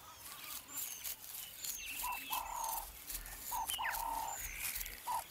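Birds calling: one call, a falling glide into a short buzzy note, repeats about every two seconds, with short high whistles in between.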